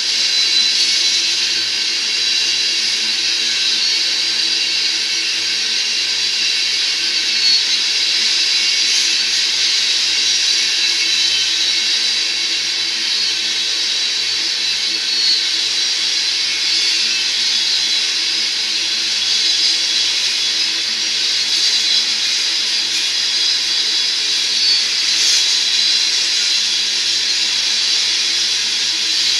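Loaded crude-oil tank cars rolling past, the steel wheels on the rails making a steady rushing noise, strongest in the high range.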